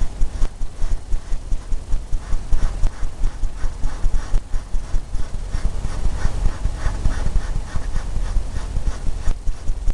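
A paintbrush scrubbing oil paint onto a stretched canvas, a quick back-and-forth rhythm of about four or five strokes a second that drums on the canvas.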